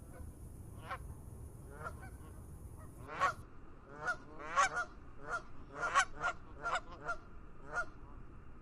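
Geese honking: a few faint calls at first, then about three seconds in a run of louder, overlapping honks from several birds that lasts until near the end.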